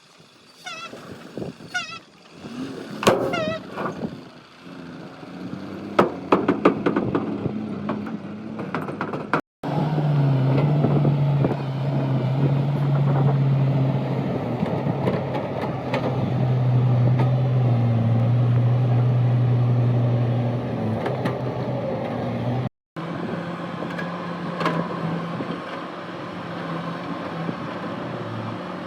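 Excavator diesel engine running under load, a steady hum whose pitch rises and falls as it works, cut off abruptly twice. Before the engine comes in there is a run of sharp squeaks and knocks.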